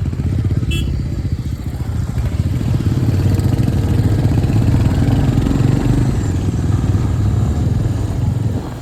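Royal Enfield Hunter 350's single-cylinder engine and exhaust running under way, a dense low-pitched pulsing. It gets louder about two to three seconds in and eases off near the end.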